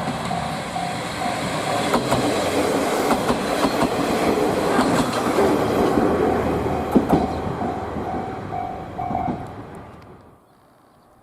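An ex-JNR diesel railcar passes close by, its wheels clicking over the rail joints; it swells to its loudest in the middle and fades away near the end. A level-crossing bell rings throughout in quick repeated beeps and stops shortly before the train has gone.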